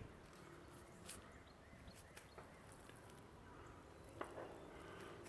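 Near silence: faint outdoor nature ambience with a low steady background and a few scattered soft clicks and ticks.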